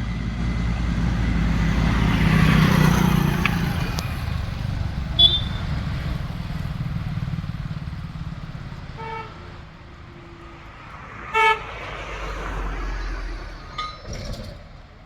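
Tractor diesel engine running under load, loudest early on and then fading. Several short vehicle-horn toots sound over it, the loudest about eleven seconds in.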